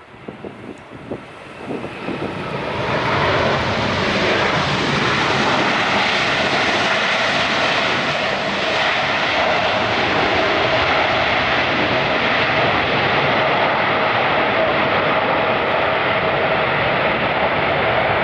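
Jet airliner's engines growing loud over the first few seconds, then a steady, loud engine noise as the aircraft passes close on the runway.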